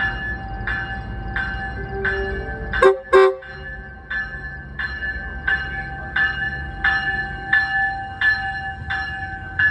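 Railroad crossing bell ringing steadily, about one strike every 0.7 seconds, over the low rumble of a train. Two short, loud sounds come a quarter second apart about three seconds in.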